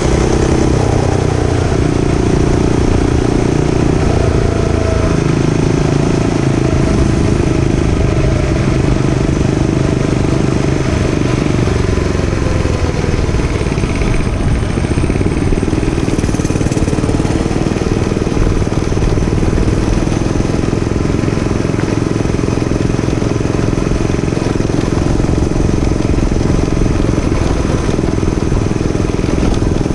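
Gas dirt bike engine running during a ride, a steady loud drone with small changes in revs.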